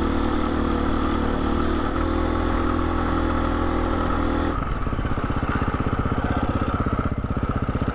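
Dirt bike engine running steadily at one speed, with no revving. About halfway through it changes to an evenly pulsing, lower idle.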